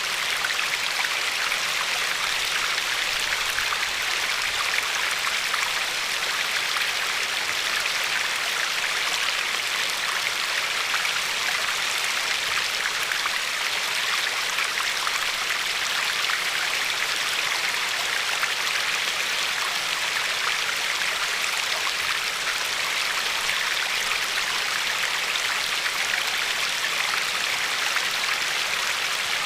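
Glacier-fed river flowing steadily over a pebbly shore: a constant, even rush of water with fine splashing and no changes.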